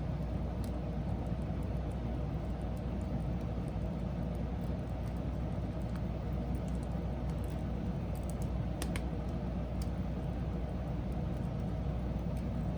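Wood fire burning with a steady low rumble and an occasional sharp crackle, one clear pop about nine seconds in.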